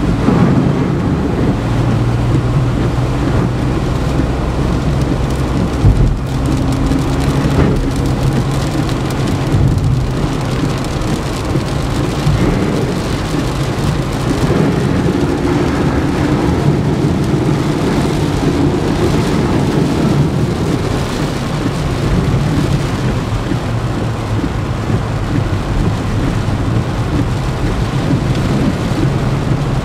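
Heavy rain falling steadily during a thunderstorm, with a continuous low rumble underneath and a brief knock about six seconds in.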